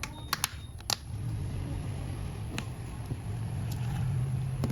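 A few sharp clicks of small repair tools and phone parts being handled, three close together near the start and one more a little past halfway, over a steady low rumble.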